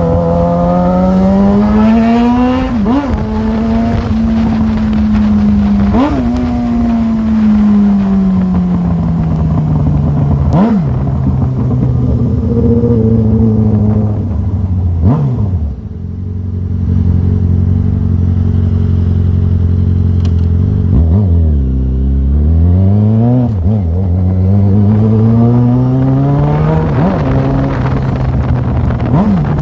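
Yamaha XJ6's 600 cc inline-four engine pulling the bike through the gears, its note climbing and then dropping sharply at each gear change several times. About halfway through it eases off to a low note before accelerating again.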